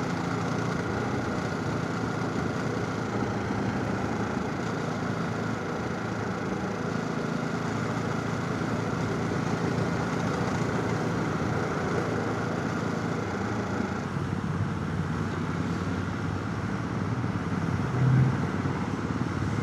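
Motorcycle engine running at steady revs under wind and road noise on a helmet chin-mounted camera, with a brief louder low swell near the end.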